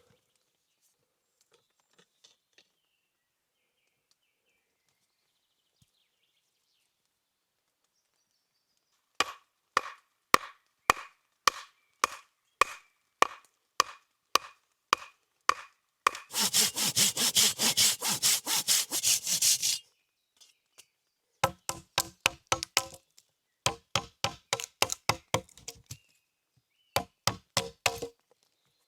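Hand saw cutting wood. After several nearly silent seconds come slow, separate strokes about two a second, then about four seconds of fast continuous sawing, then more short runs of quick strokes.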